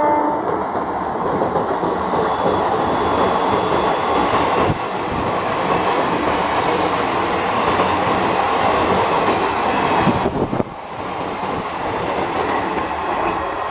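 Loco-hauled passenger coaches running past a station platform, with a continuous rush of wheels clattering over the rails. The noise drops suddenly about ten and a half seconds in, then carries on.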